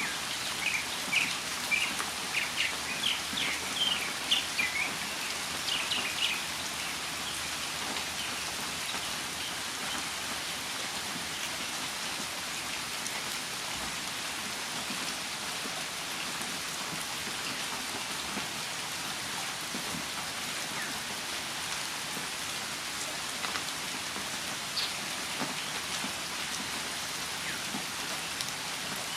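Steady rain falling, with a northern mockingbird singing a run of short, quick chirping notes over the first six seconds or so; after that the rain goes on alone, with only a few faint notes.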